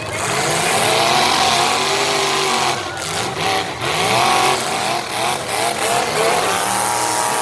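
Several demolition derby cars' engines revving hard, their pitch rising and falling over one another.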